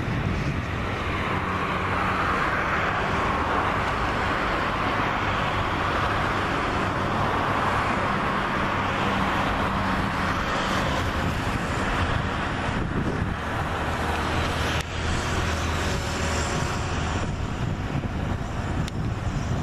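CFM LEAP-1B jet engines of a Boeing 737 MAX 8 running with a steady rush of noise and a low hum underneath, which fades about three-quarters of the way in.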